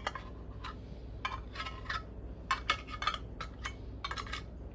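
Spoon clinking and scraping against the container as the last of the wet cat food is scooped out: about a dozen sharp, irregular clinks.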